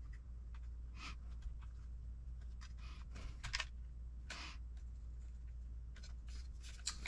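Faint, scattered clicks and light taps of small parts being handled and worked by hand, over a steady low hum.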